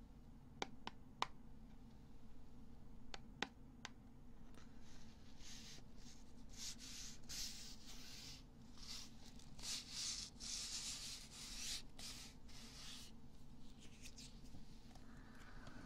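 ASMR ear-cleaning sounds close to the microphone: a few light clicks, then from about five seconds in a run of scratchy rubbing strokes that fade out near the end.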